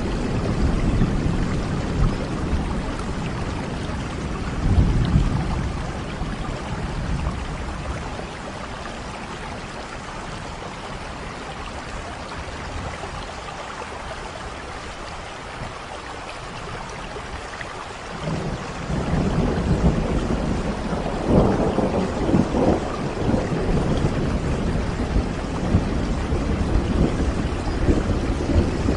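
Steady rain with rolling thunder. Low rumbles swell about five seconds in, fade to a quieter stretch of plain rain, then build again from a little past halfway to the end.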